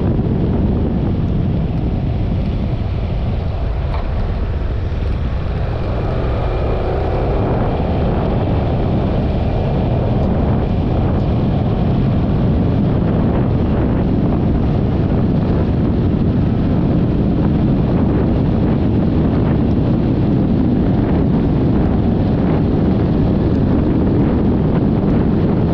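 Wind rushing over the microphone while a Yamaha XMAX 300 scooter is ridden, with its single-cylinder engine running beneath. The sound dips slightly a few seconds in, then holds steady.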